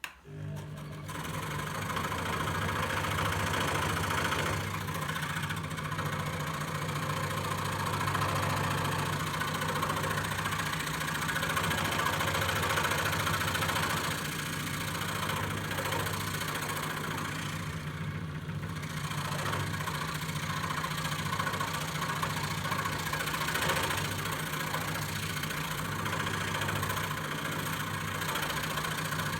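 Electric scroll saw starting suddenly and running steadily, a low motor hum under the rasp of the reciprocating blade cutting wood.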